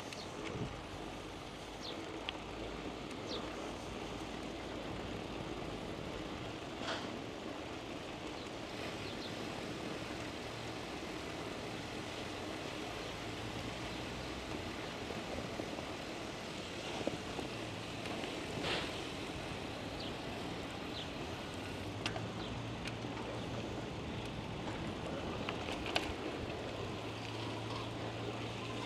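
Steady rolling and wind noise of a bicycle ride, with scattered short clicks and chirps; a low hum comes and goes in the second half.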